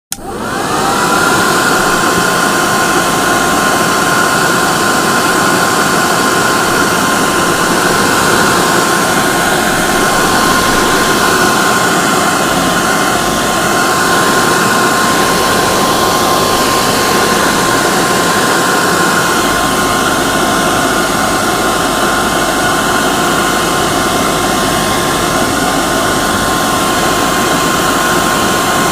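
Hair dryer switched on: its motor whine rises as it spins up in the first second, then it runs steadily with a loud rush of air and a constant whine.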